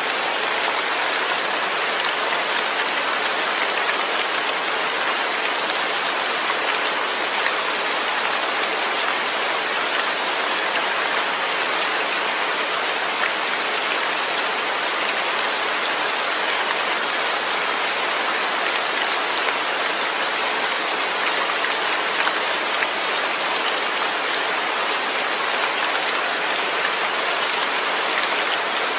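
Steady rain falling, an even hiss that never lets up, with faint scattered ticks of individual drops.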